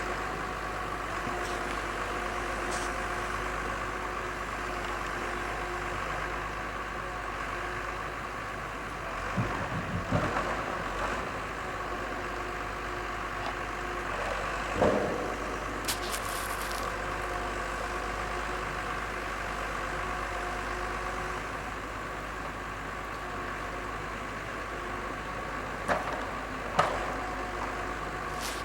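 A forestry forwarder's engine runs steadily with a constant hum and several fixed tones while its loader works at the log pile. A few clunks and knocks break in, a cluster about ten seconds in and two more near the end.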